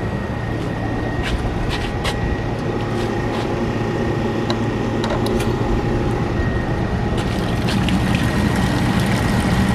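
Evaporative (swamp) cooler's belt-driven blower running steadily just after start-up, a constant hum with a faint high whine and a few small clicks. It runs without any abnormal noise.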